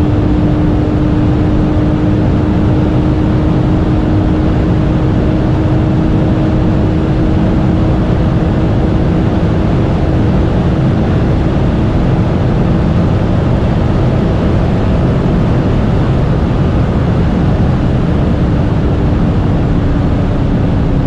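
Porsche 992 Carrera 2S, with its twin-turbo flat-six, driving at a steady speed. Engine, tyre and wind noise blend into one loud, even drone with a single held tone, and the pitch doesn't rise or fall.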